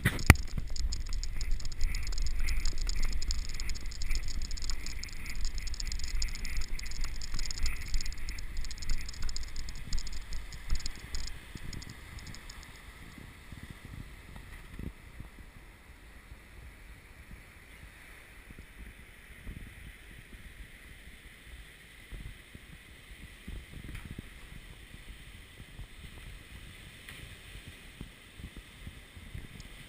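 Running footfalls on sand and wind buffeting on a GoPro Hero2's microphone, a rhythmic thudding rumble that fades to a quieter steady noise about twelve seconds in.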